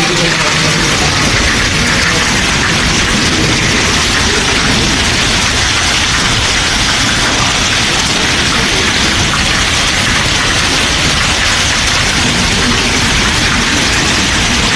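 Heavy rain pouring down, an even, loud hiss that holds steady without a break.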